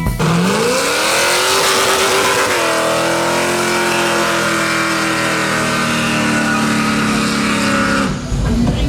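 Car engine accelerating hard. Its note rises for about two seconds, changes about two and a half seconds in, then holds a high, steady pitch until it cuts off suddenly near the end.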